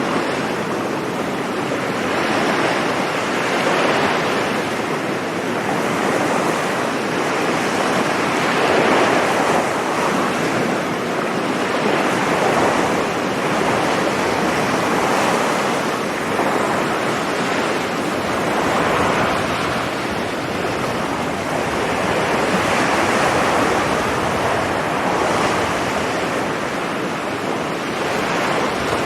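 Sea waves breaking and washing on a beach, a continuous surf that swells and eases every few seconds.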